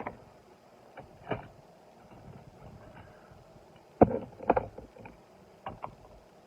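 Die-cast toy cars and their plastic carrying case being handled: a few scattered clicks and clacks, with a louder cluster of knocks a little past the middle.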